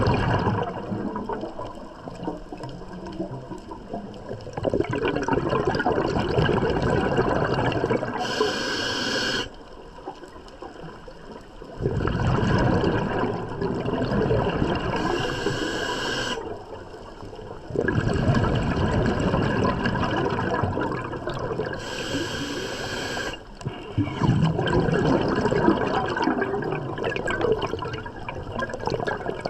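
Scuba regulator breathing underwater: long gurgling bursts of exhaled bubbles, several of them ending in a short sharp hiss, repeating about every six to seven seconds with quieter gaps between breaths.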